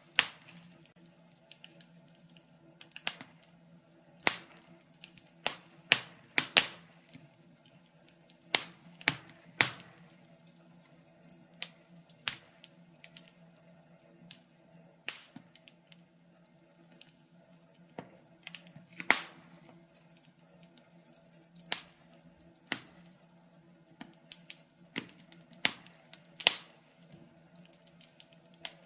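Wood fire burning in a fireplace, crackling with irregular sharp pops and snaps at uneven intervals over a faint steady low hum.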